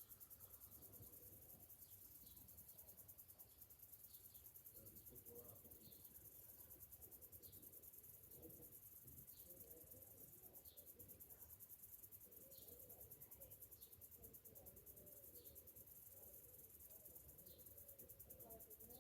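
Cicadas buzzing, a faint steady high-pitched trill made of very fast pulses, with short faint chirps repeating about once a second.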